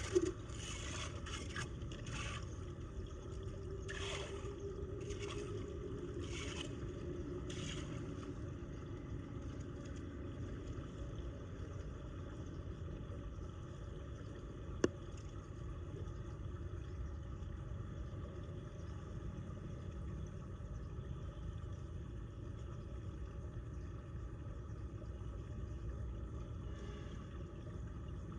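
Floodwater rushing steadily down a storm drain, a constant low rumble of flowing water. In the first eight seconds a run of short scrapes comes about once a second, and there is a single sharp click about midway.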